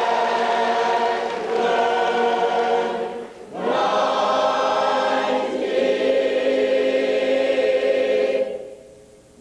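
A group of voices singing long held chords, with a brief gap about three seconds in; the singing stops near the end.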